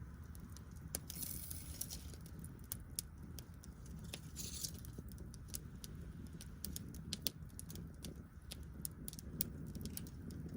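Wood fire crackling with irregular sharp pops over a low steady rumble, with brief hissing about a second in and again around four and a half seconds in.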